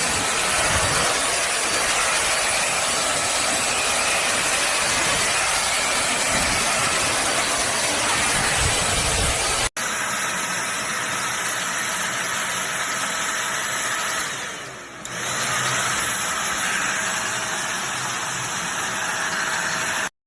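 Deerma handheld vacuum cleaner running with a steady hiss of motor and airflow. The sound breaks off abruptly about ten seconds in and resumes at once with a slightly different tone. It dips briefly a few seconds later.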